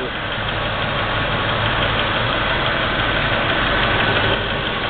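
Jet 14-inch vertical band saw, with a 1 hp three-phase motor, running steadily at its lowest step-pulley speed without cutting.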